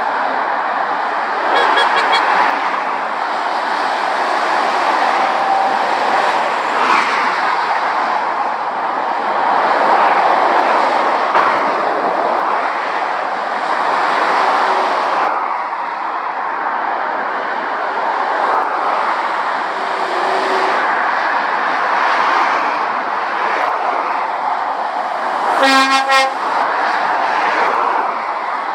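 Steady motorway traffic: lorries and cars passing at speed, their tyre and engine noise swelling and fading as each goes by. A short horn blast sounds near the end.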